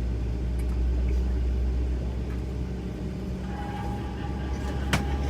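Steady low rumble of an airliner cabin, heard from a passenger seat, with a faint tone and one sharp click near the end.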